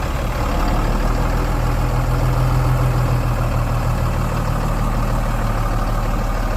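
Heavy truck engine running steadily with a low drone, swelling slightly about two seconds in, while the truck sits stuck in mud and cannot budge.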